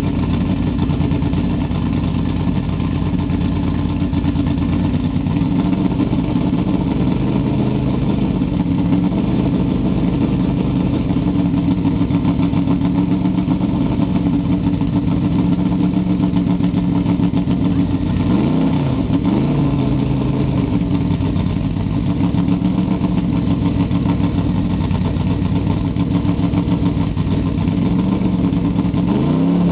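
Drag-modified Mini's engine idling loud with a choppy, pulsing beat. The revs waver twice briefly about two-thirds of the way through, then begin to rise as the throttle is opened right at the end.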